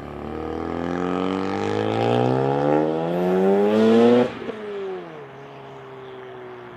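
Mazda RX-7 FD's twin-turbo 13B rotary engine revving up hard under acceleration, its pitch climbing steadily for about four seconds. It then cuts off sharply and a lower engine note falls away.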